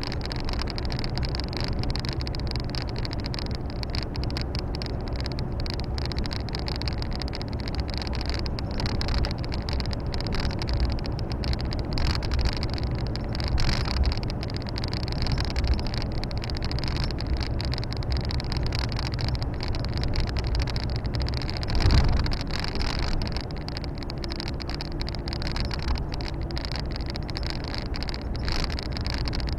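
Volvo FH 460 truck on the move, heard from inside the cab: steady drone of its 13-litre six-cylinder diesel with road and tyre noise. A single heavy thump about 22 seconds in.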